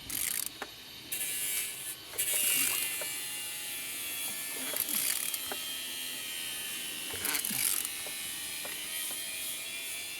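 A20DTH four-cylinder diesel engine being turned over without firing: a steady mechanical whir with scattered clicks from about two seconds in. The engine turns freely.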